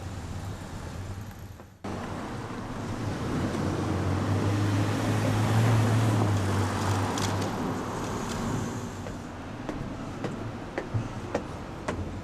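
A vehicle passing, its running noise and low hum swelling to a peak about halfway through and fading away, with a few sharp clicks near the end.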